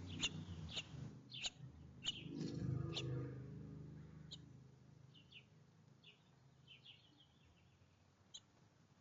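Small songbirds chirping at a feeder: short, sharp chirps about once or twice a second for the first three seconds, then fainter scattered chirps. A low rumble swells about three seconds in and fades away.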